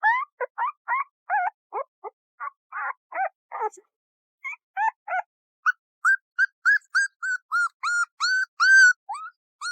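Puppy giving a run of short, high-pitched whimpers and yips, each a quick squeak sliding up or down in pitch. After a short pause around four seconds in, the yips come quicker and more even, about three a second.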